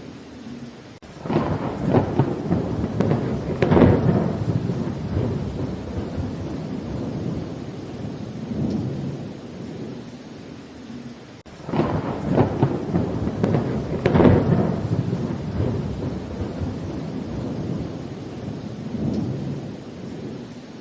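Rain falling steadily with rolling thunder: one long roll of thunder breaks in about a second in, peaking twice before it fades, and a second roll follows just past halfway.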